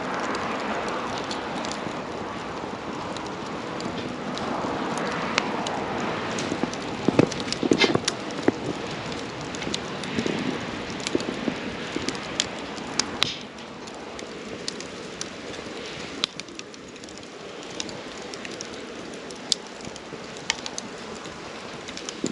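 Wood campfire burning, with a steady hiss of flames and frequent sharp crackles and pops. The hiss drops away about two-thirds of the way through, leaving quieter burning with scattered pops.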